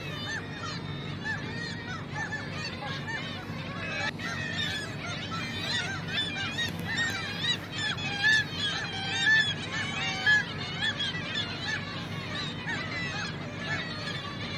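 A large flock of gulls calling, many short cries overlapping at once, with a few louder calls standing out around eight to ten seconds in.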